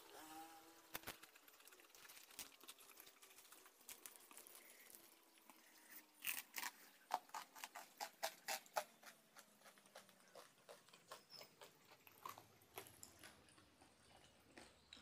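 Close-up crunching and crackling of chewing crispy battered fried eggplant: a run of sharp crunches, densest and loudest about six to nine seconds in, then sparser.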